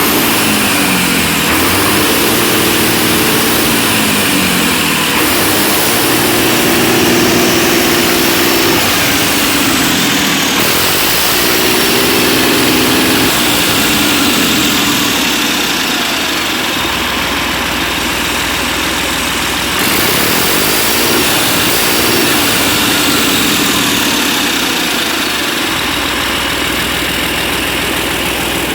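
Scania DSC9 nine-litre six-cylinder turbo diesel running out of the truck on the ground. Its engine speed repeatedly rises and falls between idle and higher revs.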